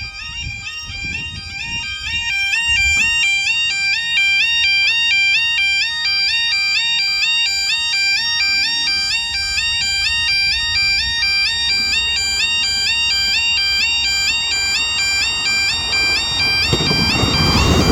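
Level crossing warning alarm (yodel) sounding continuously, a rapid two-tone warble alternating up and down; it is working normally, not the high-pitched 'screamer' of a faulty alarm. A broad rumbling noise swells near the end.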